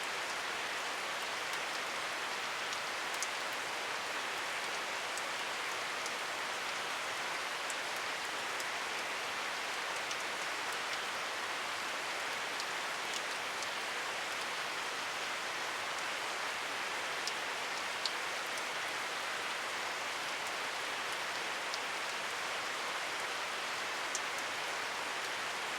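Steady rain: an even hiss of falling rain with scattered sharper drops ticking on a surface.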